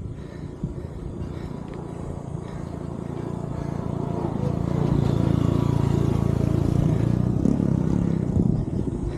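A motor vehicle's engine passing on the road, growing louder to a peak about halfway through, then fading.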